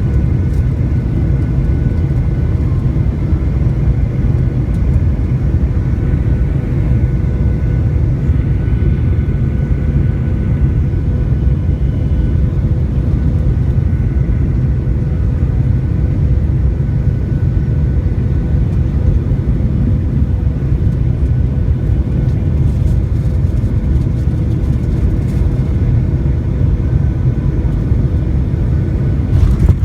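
Aircraft noise: a loud, steady low rumble with faint steady whining tones above it, unchanging throughout.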